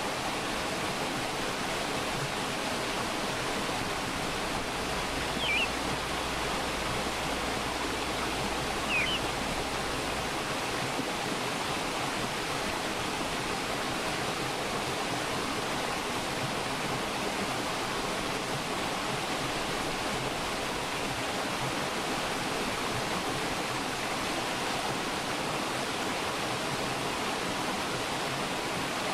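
Mountain stream rushing steadily over rocks, an even, unbroken water noise. A bird gives two short high chirps, about five and nine seconds in.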